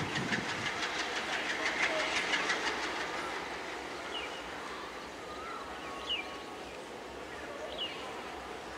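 Diesel-hauled passenger train crossing a steel truss bridge: a fast, even rattle of wheels on the bridge, loudest in the first three seconds, then easing to a steadier rumble as the train comes off the bridge. Birds chirp briefly a few times.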